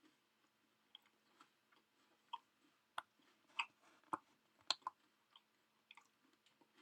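A person chewing food close to the microphone: irregular wet mouth clicks and smacks, a few a second, loudest around the middle.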